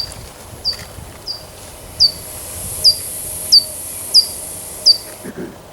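Recording of a little brown bat's call played through a speaker: a series of about eight short, loud chirps, each sweeping down in pitch, evenly spaced a little under a second apart.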